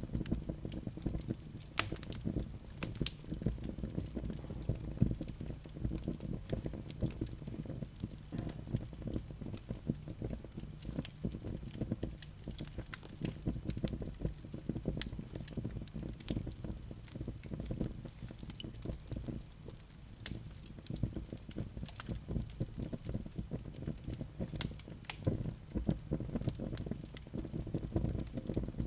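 Wood fire crackling in a fireplace: frequent sharp pops and snaps over a steady low rumble of burning logs.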